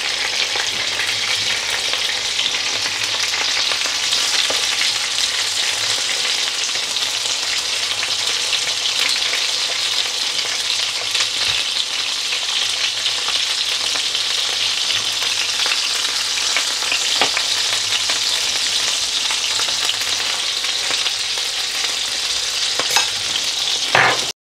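Mutton chapli kebab patties shallow-frying in hot oil in a nonstick pan: a steady sizzle and crackle, with occasional light clicks of a spatula against the pan and a short louder knock just before the end.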